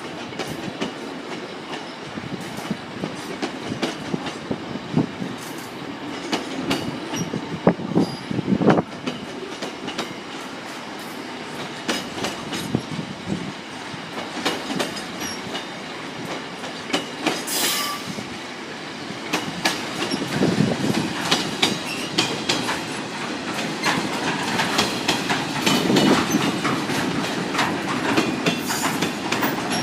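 Freight train wagons rolling past at low speed, steel wheels clattering over rail joints in an irregular stream of clicks over a continuous rumble. There is one brief high screech a little past the middle.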